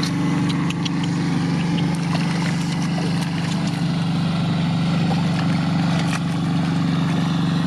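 A small engine running steadily at an even speed, with scattered short clicks over it.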